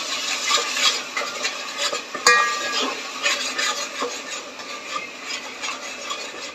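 Onion paste frying in hot butter and oil in a cooking pot, sizzling while a spoon stirs and scrapes through it. A sharp clink with a brief ring about two seconds in.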